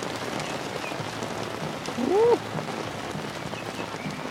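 Heavy rain falling steadily with an even hiss. About two seconds in, a man gives one short, rising-and-falling "woo".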